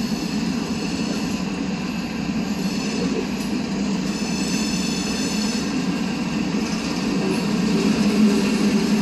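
CSX freight train's hopper cars rolling past with a steady rumble of steel wheels on rail. A high-pitched wheel squeal rises over it about halfway through.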